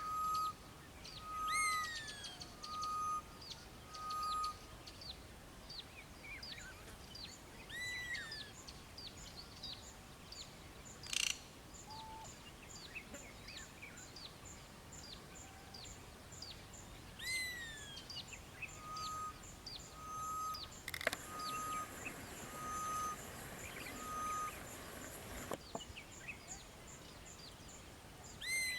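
Grey-headed bushshrike calling: a run of short, even, steady whistled notes, given again about twenty seconds later, among many small birds chirping and a repeated call that slurs down in pitch. A patch of hiss covers the last few seconds of the second run.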